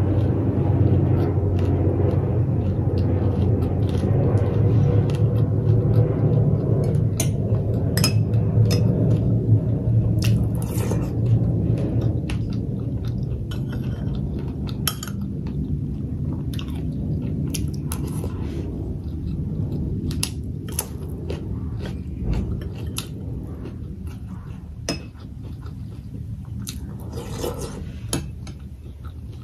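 Close-up chewing and smacking of food, with sharp clinks of a metal spoon against a ceramic bowl and plate. Under it a low rumble, loudest at the start, fades away over the first half.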